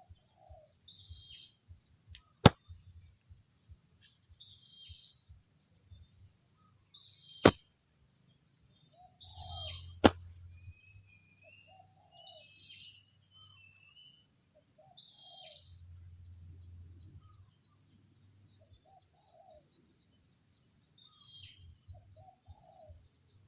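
Spotted doves cooing in short low phrases every few seconds, with a small bird's brief high chirps repeating about every second and a half. A steady high-pitched tone runs underneath, and three sharp clicks stand out as the loudest sounds, about two, seven and ten seconds in.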